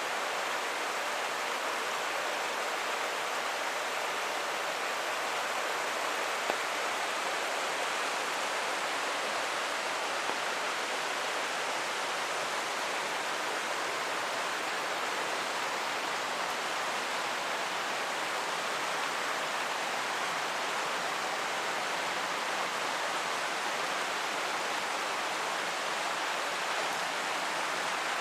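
A creek running, mixed with falling rain: a steady, even rush of water. There is one brief tick about six and a half seconds in.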